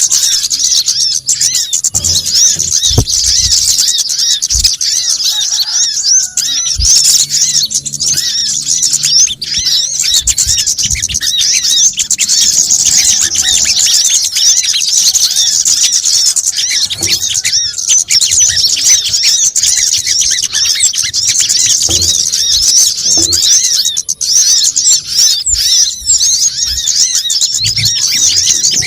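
Dense, unbroken high-pitched chirping and twittering of many small birds layered together: a bird-lure recording of sunbird calls of the kolibri kelapa kind, made to sound like a noisy flock. A few short low thumps come in the first several seconds.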